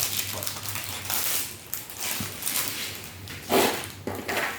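Toy kit pieces and packaging being handled: irregular rustling and light clicking, with a louder rustle about three and a half seconds in.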